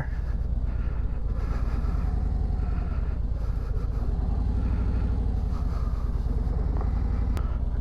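Harley-Davidson Ultra Limited Low's Milwaukee-Eight V-twin engine running steadily, with a low pulsing rumble.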